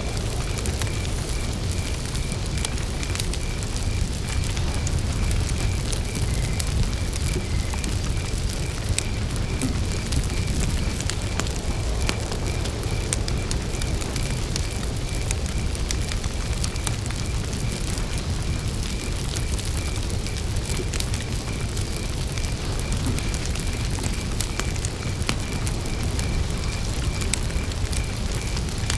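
Campfire burning steadily, with a low rumble of the flames and scattered sharp crackles and pops of burning wood. A cricket chirps in a steady, even pulse throughout.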